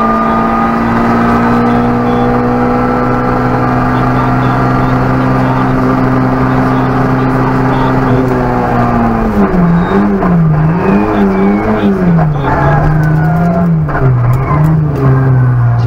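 Peugeot 106 Rallye four-cylinder rally car engine, heard from inside the cabin, held at high revs in one gear for about eight seconds with the pitch creeping up. Then the revs fall and swing up and down as the car brakes and changes down for a bend.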